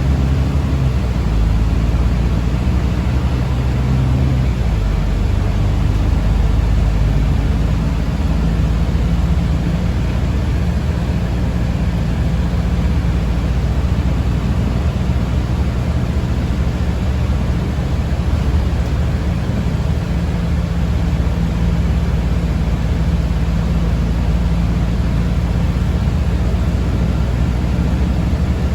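Inside a moving city bus: a steady low rumble and hum of the vehicle driving, with road noise.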